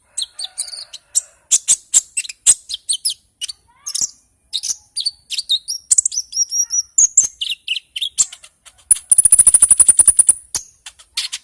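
A konin songbird singing: a busy run of sharp high chirps and short sliding whistles, broken about nine seconds in by a fast, high buzzing trill lasting about a second and a half.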